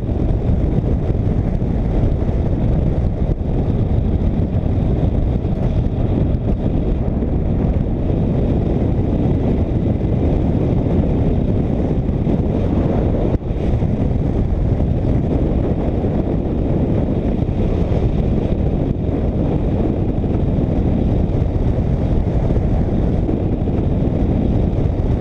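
Motorcycle riding at road speed: a steady rush of wind over the microphone mixed with engine and road noise, with no change in pace.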